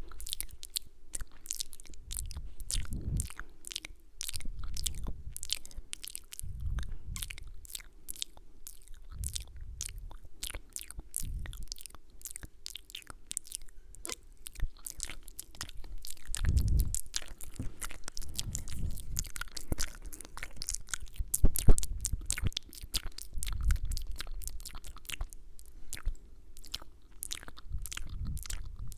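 Close-miked ASMR mouth sounds: dense, irregular wet clicks and smacks of lips and tongue, with soft low thuds every second or two.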